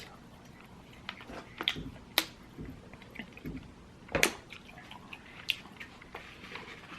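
Close-miked eating: irregular wet mouth clicks and smacks from chewing fried chicken, the sharpest about two and four seconds in.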